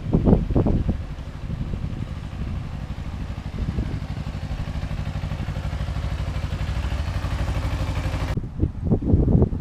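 Engine running at a steady speed, with a low, even pulse. Gusts of wind noise come before it, and it cuts off abruptly near the end.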